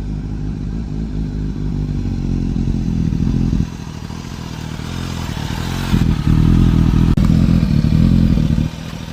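Motorcycle engine running at a steady, unchanging pitch. It is louder for the first three and a half seconds, drops back, then grows louder again from about six seconds until just before nine.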